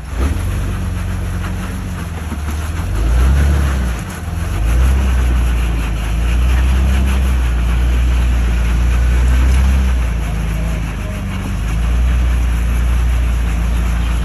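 Jeep engine running at low revs with a heavy low rumble, its pitch stepping up and down as the throttle changes.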